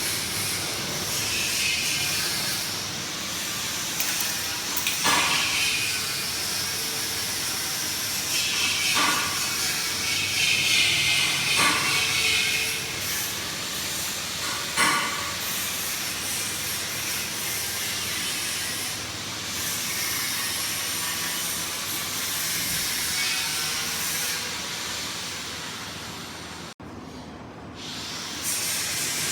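PVC flexible duct forming machine running: a steady hissing mechanical noise with several brief louder swells, dropping out briefly near the end.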